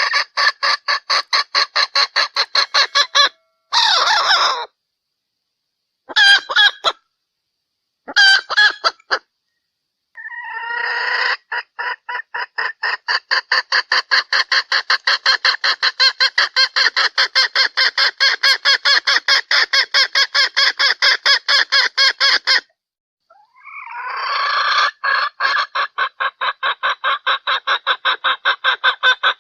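Female junglefowl (hen) calling, the lure call used to draw in males: long runs of rapid clucks, about four a second, each run opening with a rising note. A few short bursts and brief pauses break it up, and the longest run lasts about ten seconds.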